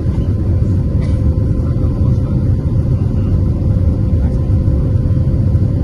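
Airbus A320 jet engines running with a loud, steady low rumble and a faint steady hum above it.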